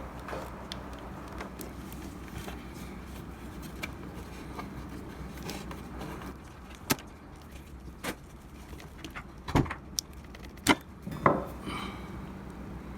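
Scattered small clicks and knocks of hands working on the internals of an espresso machine, pulling wire connectors and handling parts around the pump. A few sharper knocks come about ten to eleven seconds in, over a faint steady hum.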